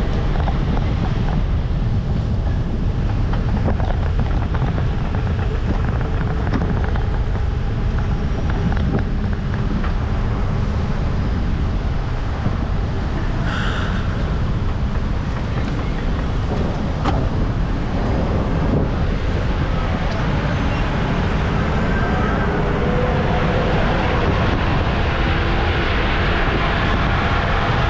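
Steady wind rumble on the microphone mixed with vehicle and road noise, as from a camera moving with traffic.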